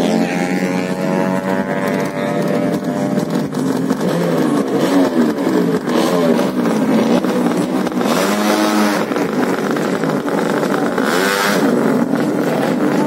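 Racing underbone motorcycle engines revving, more than one at a time, their pitch climbing and falling repeatedly with sharper sweeps up near the end.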